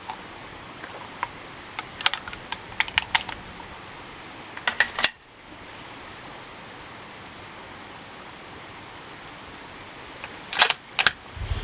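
Sharp metallic clicks and clacks from handling and loading a bolt-action 6.5 Creedmoor rifle: scattered light clicks, a louder quick cluster about five seconds in, and another pair of clicks with a low thump near the end.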